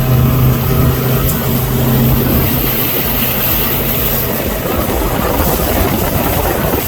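Motorboat's outboard engine running with a steady low hum, which weakens after about two and a half seconds under a growing rush of water and wind.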